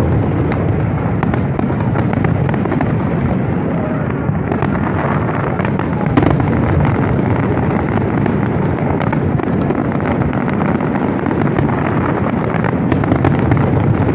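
Fireworks display going off continuously: a dense, steady rumble of booming shells with rapid crackling throughout.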